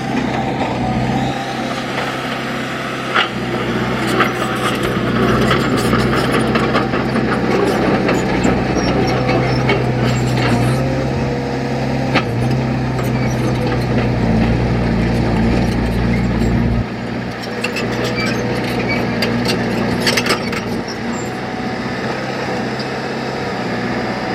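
Heavy diesel earthmoving machinery running steadily, with scattered metallic clanks and knocks over the engine; the deepest part of the rumble drops away about two-thirds of the way through.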